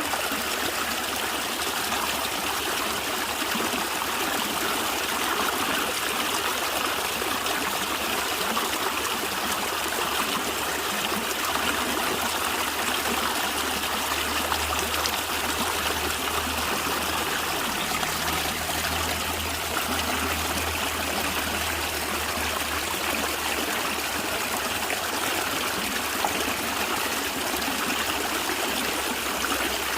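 Stream of water flowing and gurgling steadily, with a faint low rumble in the middle.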